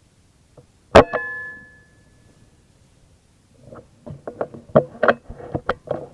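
A single sharp air-rifle shot about a second in, with a brief metallic ring fading after it. From about three and a half seconds in comes a run of irregular sharp clicks and knocks, typical of handling the gun and equipment.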